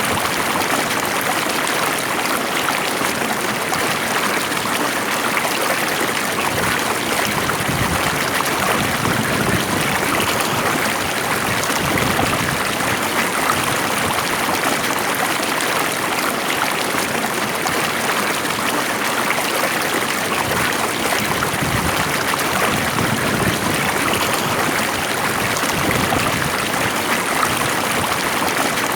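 Water of a stream flowing steadily, with a continuous babbling rush.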